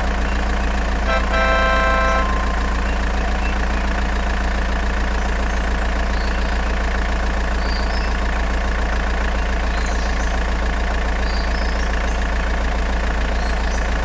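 Steady truck-engine idling rumble, with a short horn honk about a second in and faint high chirps scattered through the later part.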